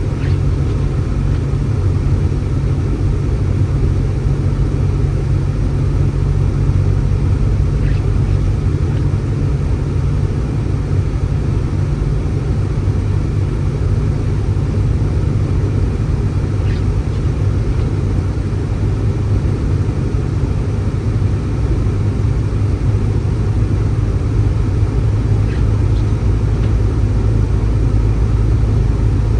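A steady low rumble with no letup, and faint brief high squeaks about every eight or nine seconds.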